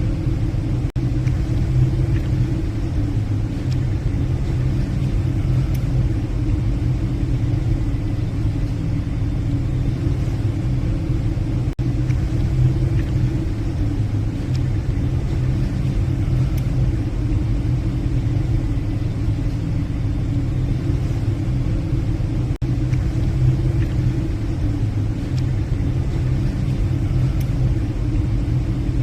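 Steady low hum of a passenger ship's engines and machinery heard from the bridge, a constant drone without change.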